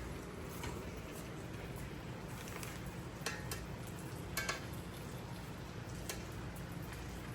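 Quesadilla frying in a buttered pan: a steady low sizzle with a few faint clicks.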